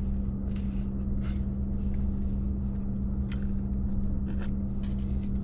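A person biting into and chewing a soft tortilla wrap, with scattered soft clicks and mouth noises over a steady low hum from the truck cab.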